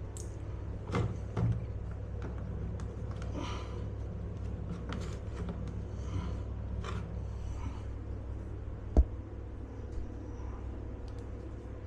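A steady low hum with faint scattered rustles and light clicks, and one sharp knock about nine seconds in.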